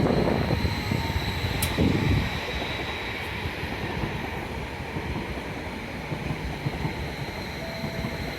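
TfL Rail electric passenger train pulling into a station platform. A loud rumble eases off about two seconds in to a steadier, quieter running noise with a steady high whine.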